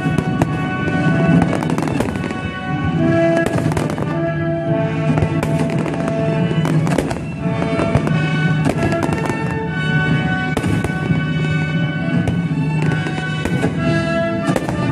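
Aerial fireworks going off in a dense barrage of irregular bangs and crackles, over loud music with long held notes.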